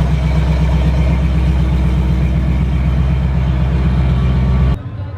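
Vehicle engine idling loudly and steadily with a deep, even rumble, cutting off suddenly near the end.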